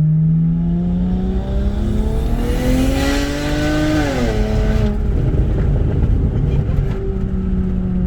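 Single-turbo BMW 335i's N54 straight-six accelerating hard from inside the cabin. The engine note climbs steadily for about four seconds, then drops sharply at an upshift. A rushing turbo hiss swells at the top of the revs.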